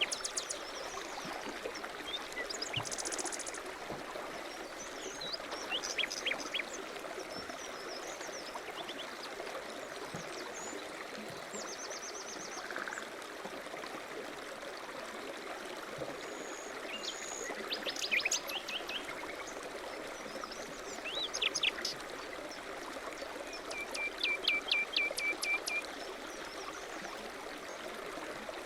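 Small birds chirping and singing in short phrases, including a quick run of repeated notes near the end, over a steady rushing noise like flowing water.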